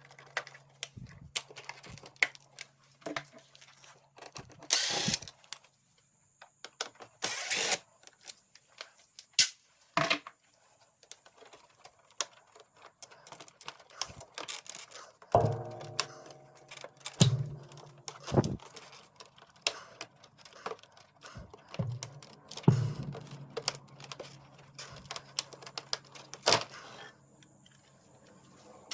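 Irregular clicks, knocks and rattles of hard plastic and metal parts being handled while an air conditioner is taken apart, with two brief hissing bursts early on.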